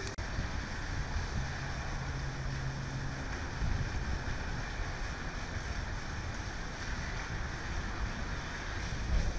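Steady rain falling, a continuous hiss, with wind rumbling on the microphone and swelling in gusts about four seconds in and near the end.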